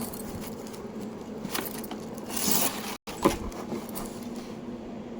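Packaging being handled: light rustling and scraping, with one brief louder scrape about halfway through and a sharp click just after it.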